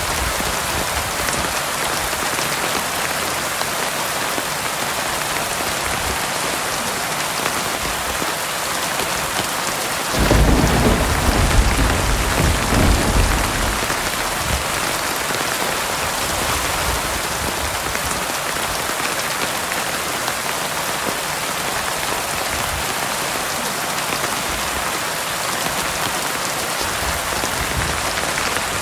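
Heavy rain falling steadily. About ten seconds in, a clap of thunder breaks in with a deep rumble that lasts three to four seconds before fading back into the rain.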